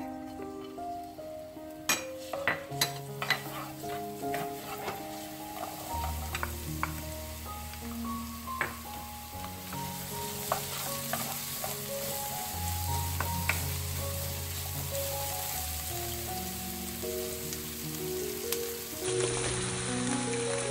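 Minced garlic and sliced onion sizzling in hot oil in a nonstick wok, the hiss growing fuller as it goes on, with sharp clicks of a wooden spatula against the pan, most of them about two to four seconds in. Soft background music plays throughout.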